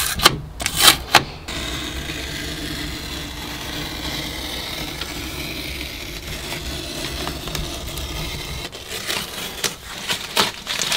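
Masking tape being peeled off freshly painted wood panelling: short sharp tearing rasps in the first second and a half and again near the end, with a steady low hum in between.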